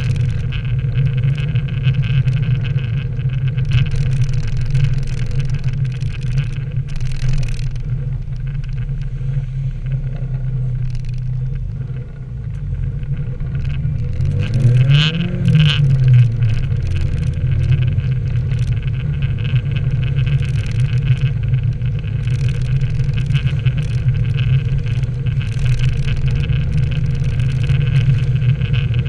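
Nissan 240SX running as it drives on a wet road, a steady engine drone over a constant hiss of tyre and road noise. About halfway through, the engine revs up briefly and falls back.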